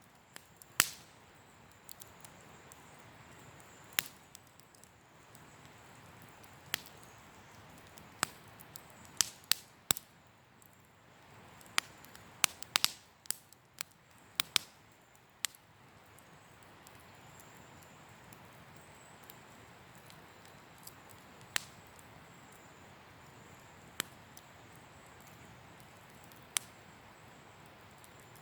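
Wood campfire crackling: sharp, irregular pops and snaps over a soft steady hiss of burning. The pops come in a thicker cluster about a third to halfway through.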